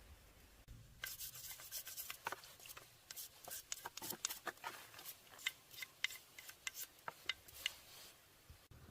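Irregular rubbing and scraping by hand on an engine part, a string of short, sharp scratchy strokes starting about a second in.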